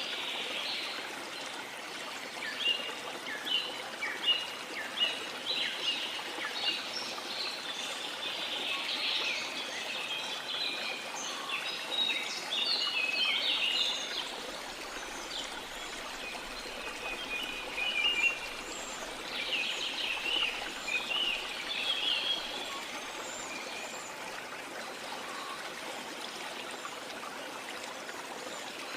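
Rain forest ambience: a steady rush of flowing river water with many birds chirping and calling over it. The bird calls are thick through the first half and thin out toward the end.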